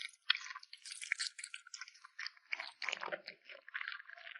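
A kitten chewing meat: a quick, irregular run of small wet crunching and smacking bites.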